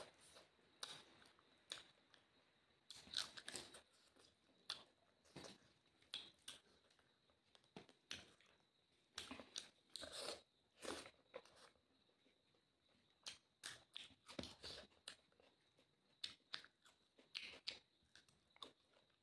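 Soft, close-up eating sounds: irregular crunching, chewing and mouth clicks as chicken, rice and crisp papad are bitten and chewed.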